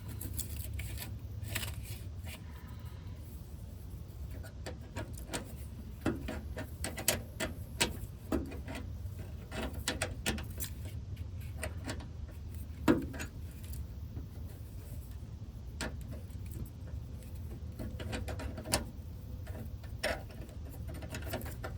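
Irregular metal clicks and taps of a wrench working a stuck, rounded-off brake line nut, over a steady low hum.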